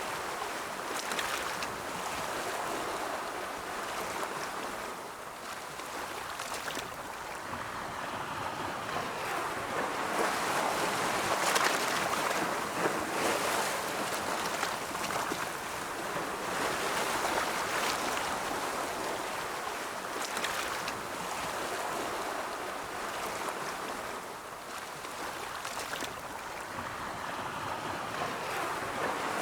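Ocean waves rolling in, a steady wash of surf that swells and ebbs slowly, louder in the middle and dipping a few seconds in and near the end.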